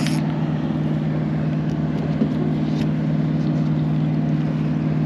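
Motorboat engine running at a steady low drone, with a few faint ticks over it.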